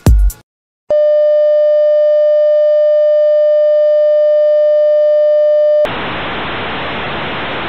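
A dance-music beat cuts off, and after a brief silence a steady electronic beep tone holds for about five seconds. It then switches abruptly to a quieter, even hiss of television static.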